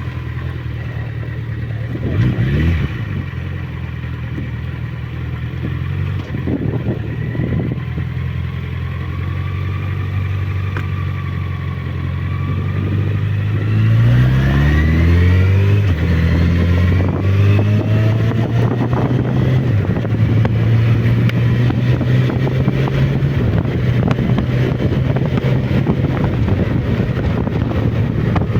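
Suzuki Bandit motorcycle engine running while riding downhill. About halfway through the revs sweep down and up, and then it runs louder.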